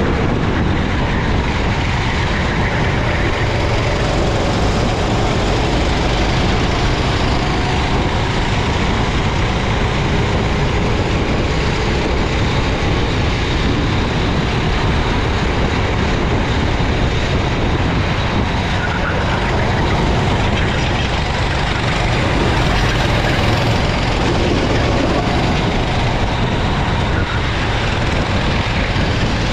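Racing kart engine running at speed on a wet track, its note rising and falling faintly under a loud, steady rush of wind and rain noise on the onboard microphone.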